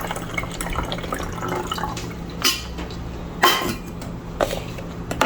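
Sugar-water syrup being poured into a hummingbird feeder's reservoir, a steady trickling fill, with three short knocks in the second half.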